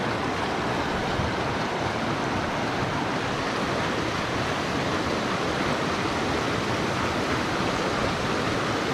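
Rushing creek water, a steady, even rush of water running over rocks.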